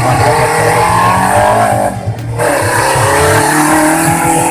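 Off-road 4x4's engine revving hard under load. The revs dip briefly about two seconds in, then pick up again.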